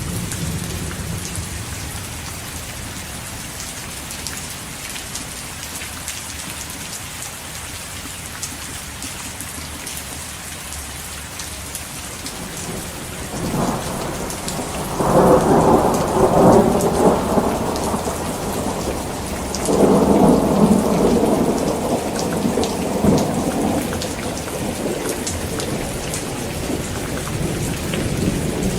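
Heavy rain falling steadily, with rolling thunder building about halfway through and peaking in two loud rumbles a few seconds apart before tailing off.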